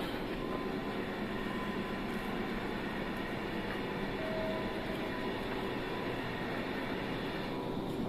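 Electric commuter train standing at a station platform, its onboard equipment giving a steady hum with a few held tones.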